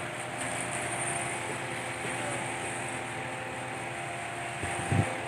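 Engine of a hydraulic truck-mounted crane running steadily, with a short low knock about five seconds in.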